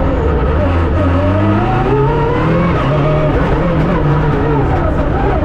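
Rally car engine heard from inside the cabin under hard driving, the revs falling in the first second, climbing steadily for about a second and a half, then dropping and rising again through the gears and corners.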